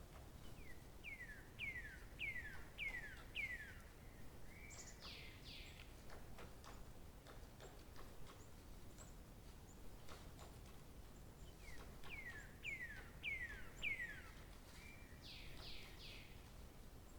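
A songbird singing two similar phrases about ten seconds apart: each is a run of five whistled notes, each note sliding downward, followed by a short level note and a few higher, harsher notes.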